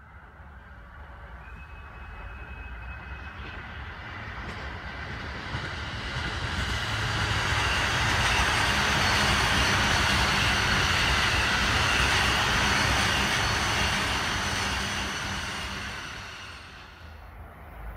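A long electric commuter train passing: its running noise swells over several seconds, stays loud for about six seconds, then fades, and a second train starts to be heard approaching near the end.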